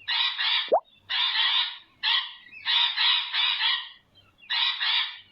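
Parrot squawking: a run of harsh, raspy calls, about one a second.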